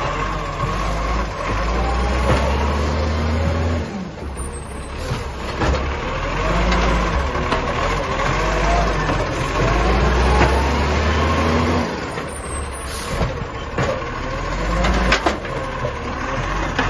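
Garbage truck working, its engine revving up in three long stretches over a steady high whine, with a few sharp knocks in between.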